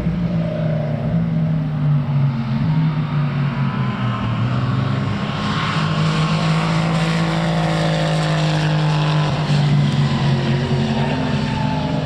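Racing car engine running hard on track, holding a fairly steady pitch with small rises and falls in revs.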